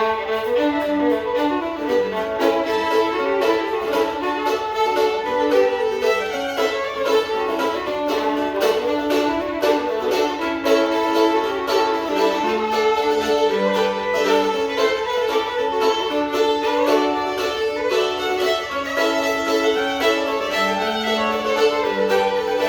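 Old-time string band music: a fiddle plays a quick, busy tune melody over plucked-string accompaniment with low bass notes.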